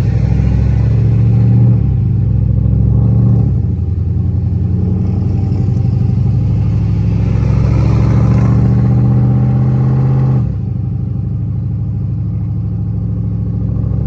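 Dodge SRT8's 392 Hemi V8 running rough with a misfire. Its note shifts a few times and steps down in level about ten seconds in. The owner suspects fouled spark plugs or failing lifters.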